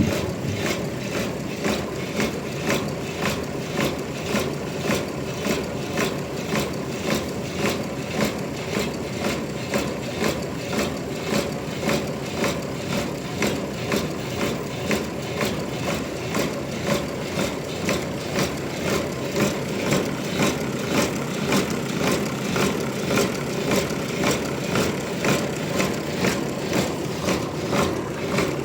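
Sawmill machinery running steadily, with a regular beat of about two knocks a second.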